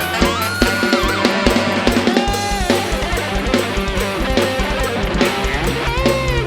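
Live band music between sung verses: a drum kit with bass drum keeps a steady beat under guitar, and a lead melody plays with sliding notes.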